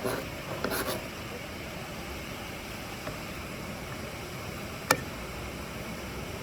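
Steady rushing of a nearby waterfall, with a brief clatter of small knocks just after the start and a single sharp click about five seconds in.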